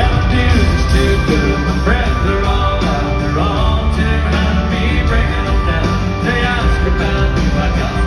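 Country-rock band playing loud and steady through a concert sound system.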